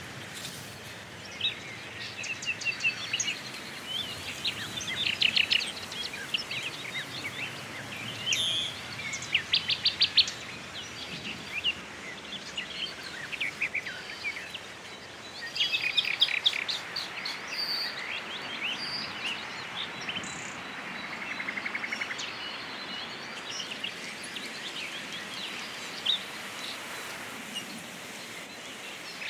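Several songbirds singing and calling, in short chirps and quick trills that come in bursts every few seconds, over a steady outdoor background hiss.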